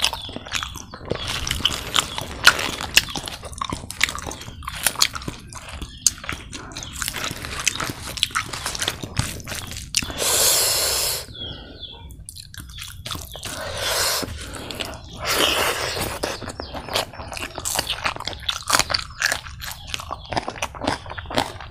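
Close-miked eating sounds of a man chewing spicy pork curry, boiled egg and rice eaten by hand: many quick wet mouth clicks, with a few longer rushes of noise about halfway through.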